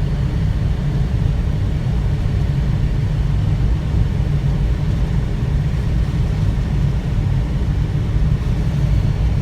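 Steady low rumble of air rushing past a glider's cockpit in flight, even in level throughout.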